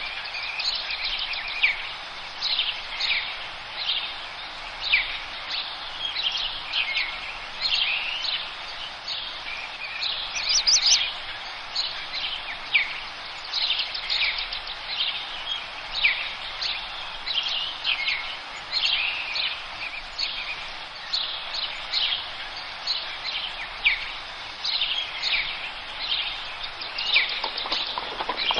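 Forest birds singing: many short, high, downward-sweeping chirps, several birds overlapping, over a steady background hiss.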